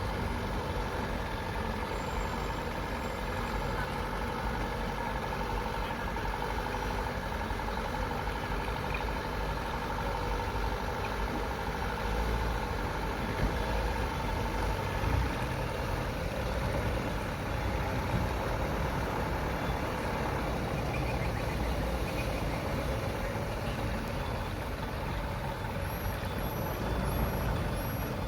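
Truck engine running steadily, a continuous low rumble. A series of short, high chirps repeats near the end.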